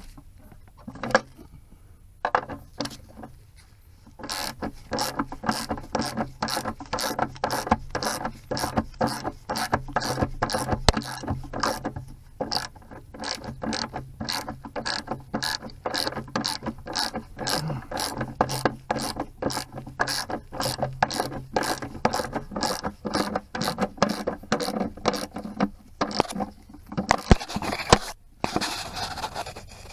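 A 3/8-inch drive ratchet clicking in a steady rapid run as it tightens the nuts on the battery hold-down bracket, starting a few seconds in. Near the end a brief scraping, rustling noise.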